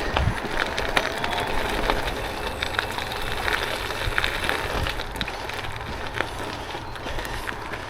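Bicycle tyres, Schwalbe G-One Allround gravel tyres, rolling over a gravel track: a steady crunching hiss dotted with many small clicks of loose stones.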